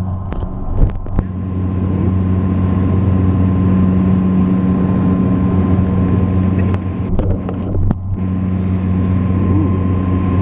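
Cabin drone of a Saab 340B's twin turboprop engines and propellers, a steady loud hum with a strong low note and its overtone. Two light knocks come about a second in.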